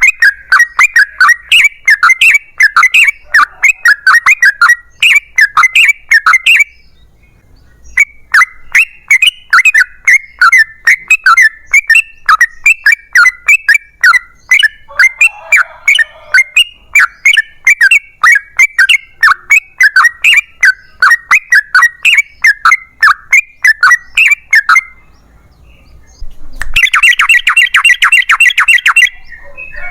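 Yellow-vented bulbul (trucukan) singing its long rolling song: loud, rapid, chattering notes in long runs, broken by two short pauses, with a denser, faster run near the end.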